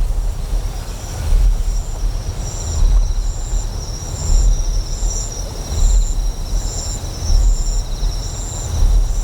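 Deep pulsing generator hum that swells about every second and a half, with insects chirping over it in a high trill of short calls, about three every two seconds.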